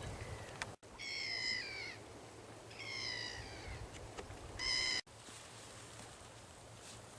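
A bird calls three times, each a pitched, slightly falling call about a second long. The third call is shorter and louder and cuts off abruptly.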